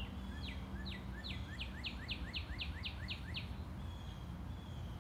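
A songbird singing one song of about ten quick downward-slurred notes, slightly speeding up, over a steady low background rumble.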